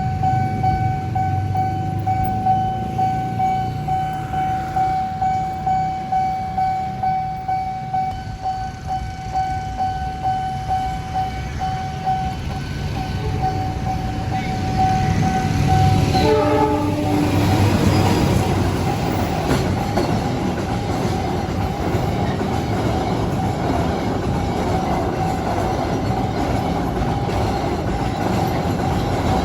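A level crossing's electronic warning alarm sounds a steady, pulsing tone; about sixteen seconds in a train sounds its horn briefly and the train then runs through the crossing, its wheels rumbling and clacking over the rails.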